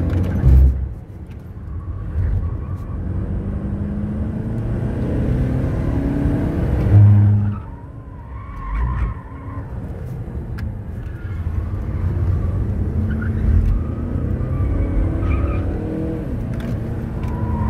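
Turbodiesel (TDI) car engine heard from inside the cabin, driven hard on a track: it pulls with rising pitch for about seven seconds, drops off sharply as the driver lifts, then builds again. There are brief tyre squeals in the corners.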